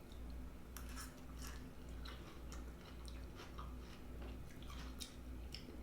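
A person chewing food, with irregular wet mouth clicks and smacks and a few light crunches. A low hum runs underneath.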